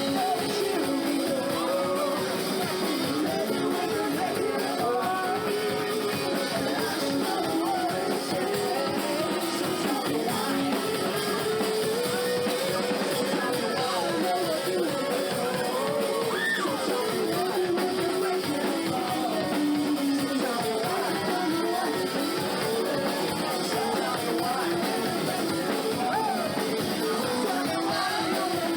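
Live rock band playing a song: guitars over a drum kit.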